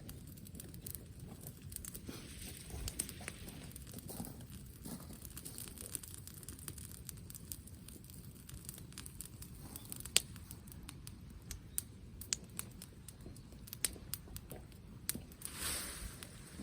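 Wood bonfire crackling, with scattered sharp pops and snaps over a steady low rumble. A brief rush of noise comes near the end.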